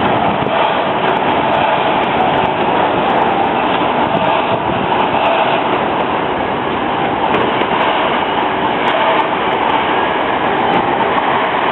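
Steady rumble and rail noise of a moving train, with faint clicks scattered through it.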